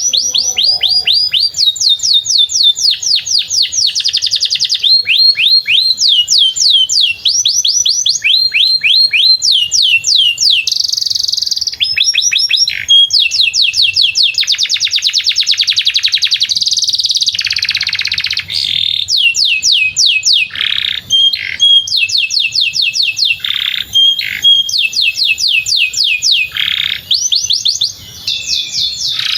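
Domestic canary singing a long continuous song: fast trills of rapidly repeated falling notes, the speed changing from phrase to phrase, with a few short breaks in the last third.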